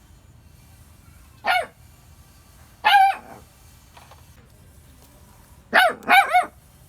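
A dog barking: two single barks, then a quick run of three.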